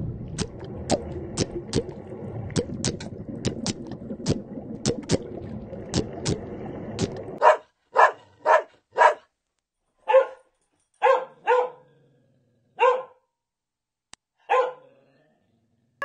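Small curly-coated dog barking: about nine short single barks, one at a time with gaps between, through the second half. Before that, a steady rushing noise with sharp clicks.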